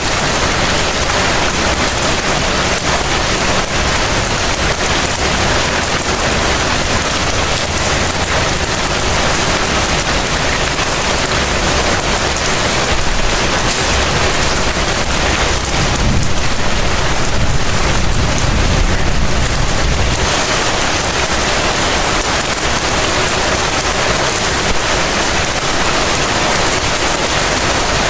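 Heavy rain falling steadily in an even hiss. A low rumble, like distant thunder, swells for a few seconds a little past the middle.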